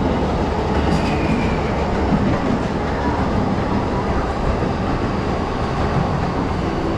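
Electric train moving through a station platform: steady running noise of the wheels on the rails.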